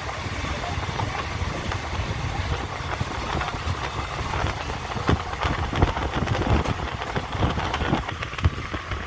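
Indian Railways passenger train running along the line, heard from inside the coach: a steady rumble of wheels on rails with frequent sharp clicks and knocks, a few louder ones in the second half.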